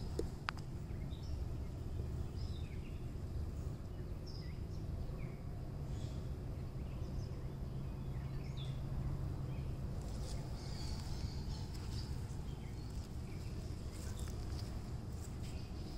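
Park ambience: small birds giving scattered short chirps over a steady low rumble of background noise.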